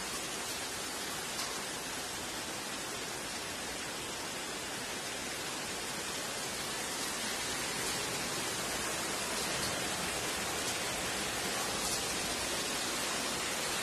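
Rain pouring steadily onto concrete and open ground, an even hiss without breaks.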